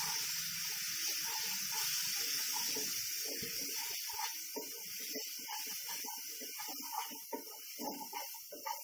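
Spice masala and onion paste sizzling in a kadhai while a wooden spatula stirs and scrapes it around the pan, with a quick run of short scraping strokes from about three seconds in as the sizzle slowly fades.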